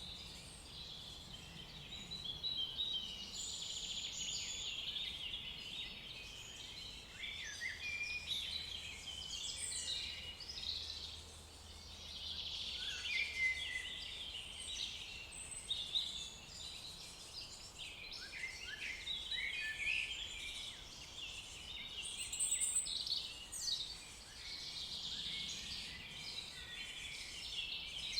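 Forest birdsong: many songbirds chirping and trilling over one another in a continuous dawn-chorus-like tangle of short, high calls.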